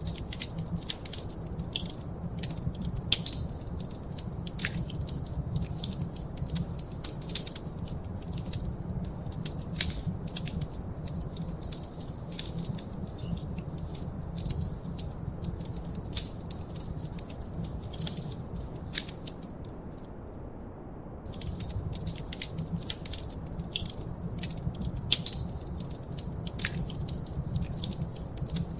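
Wood fire crackling in a fireplace: a dense run of sharp pops and snaps over a low, steady rumble of the flames. The crackling pauses for about a second near the end, then resumes.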